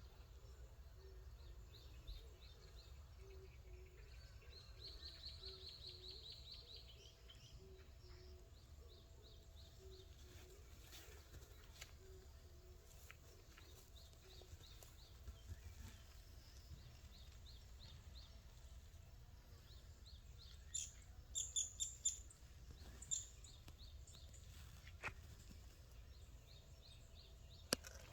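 Faint outdoor ambience with distant birds chirping, a quick high trill about five seconds in, and a short run of louder chirps about three-quarters of the way through.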